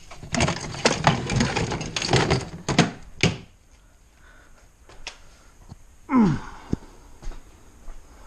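Loose metal and plastic parts rattling and clattering for about three seconds, as when rummaging through a parts bin, then a few scattered knocks and a short sound sliding down in pitch about six seconds in.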